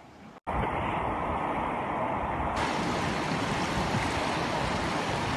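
Steady rushing of floodwater flowing down a wadi, cutting in abruptly about half a second in after a brief quiet.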